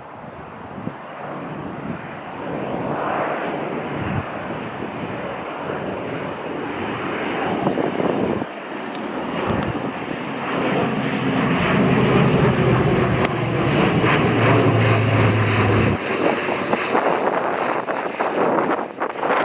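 Airliner's engines growing louder as the aircraft passes, loudest a little past the middle with a falling pitch, then easing off slightly near the end.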